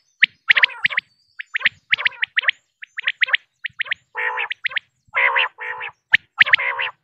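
Female common quail calling: quick clusters of short, high chirping notes, broken about two thirds through by three longer, lower, rougher notes.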